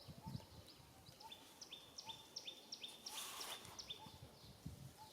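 Faint outdoor ambience with a bird's short high chirps repeated evenly, about three a second, and a brief hiss or rustle a little past three seconds in.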